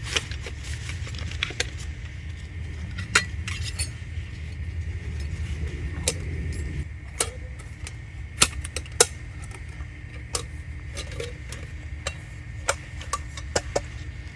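Camping gear being handled while a campsite is set up: a string of sharp, irregular metallic clinks and knocks over a steady low rumble.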